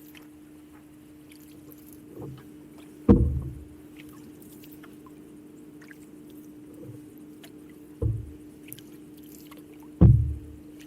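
Hollow knocks against a canoe's hull, four of them: a light one about two seconds in, loud ones about three seconds in and near the end, and a medium one between. Under them runs a steady low hum with faint drips and ticks.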